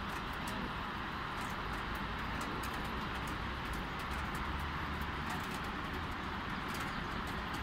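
Light rain: a steady hiss with many single drops ticking close by, over a low rumble of distant traffic.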